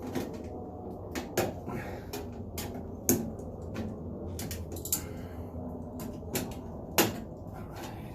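Irregular clicks, knocks and light clatter of hard parts being handled while working on an over-the-range microwave, with sharper knocks about three and seven seconds in.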